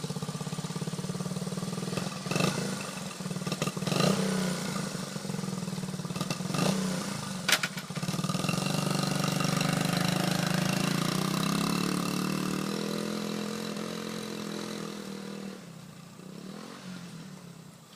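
1977 Honda CT90 Trail's small single-cylinder four-stroke engine running as the bike is ridden through the gears, with a few sharp knocks in the first half. The engine revs up about eight seconds in, then grows fainter toward the end.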